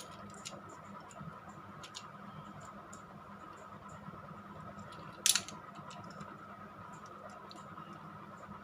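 Small plastic clicks and taps from handling a toy train engine that won't run, with one sharper click about five seconds in, over a faint steady hum.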